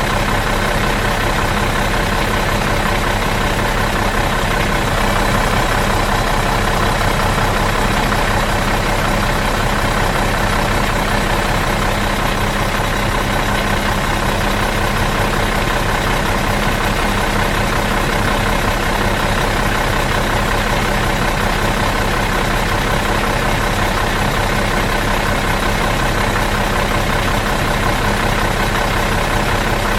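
Bus engine idling steadily in neutral, an even, unchanging hum.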